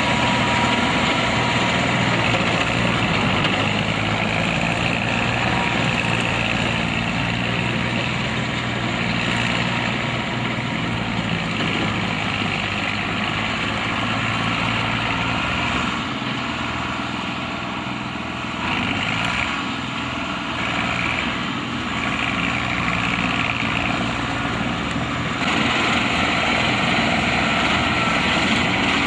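Combine harvester's diesel engine running steadily with a mechanical rushing, easing off slightly about halfway through before picking up again.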